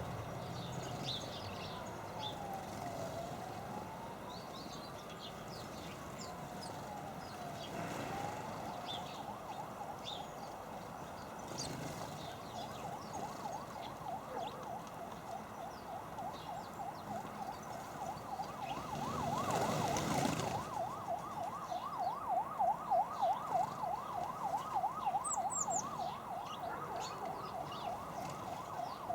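Emergency vehicle siren, first a slow rising-and-falling wail, then switching about a third of the way in to a fast warbling yelp that grows louder. Small birds chirp briefly here and there over it.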